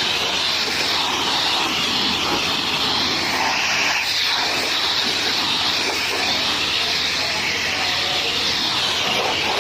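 High-pressure washer jet spraying water onto a car: a loud, steady hissing rush.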